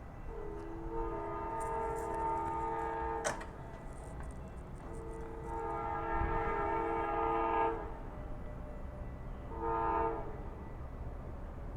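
Amtrak locomotive's multi-note air horn sounding two long blasts and then a short one, the long-long-short opening of a grade-crossing warning. A steady low rumble from the train runs underneath, and there is a single sharp click about three seconds in.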